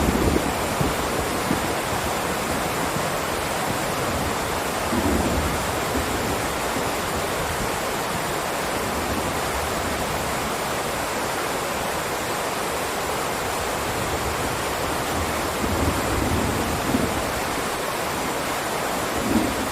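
Steady heavy rain: a dense, even hiss, with a few brief louder swells about five seconds in and again near the end.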